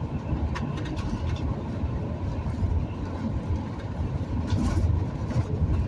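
Steady low road rumble of a vehicle driving along a highway, heard from inside the cab.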